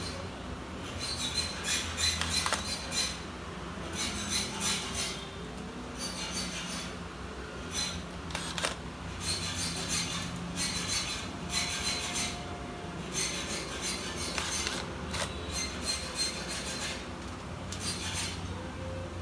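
Repeated scratchy rubbing and scraping on the laptop's parts during keyboard replacement, in short bursts every second or so with brief pauses between them.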